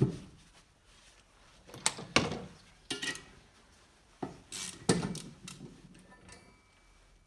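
Metal hand tools knocking and clinking in short, separate strikes while a steel bearing puller is worked to draw a bearing off.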